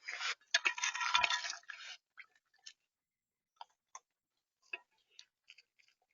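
Crunching and scraping at the feeder right against the microphone for about two seconds, with a dull bump about a second in, then a string of scattered light taps and clicks: an animal pecking or picking at seed on the feeder tray.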